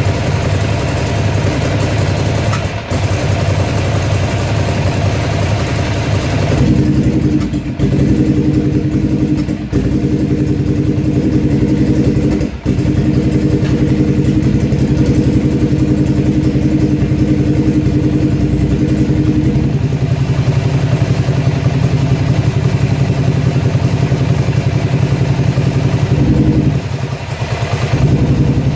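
Ducati Monster's air-cooled L-twin engine running steadily, with a change of engine tone about seven seconds in and again near twenty. Its sound briefly drops out a few times in the first half.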